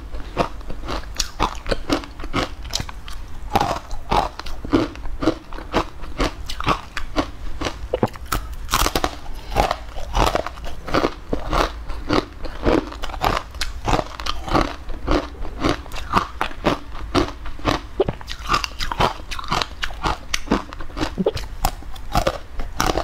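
Close-miked crunching and chewing of a dry, crumbly green food: many quick crackly bites, several a second, going on without a break.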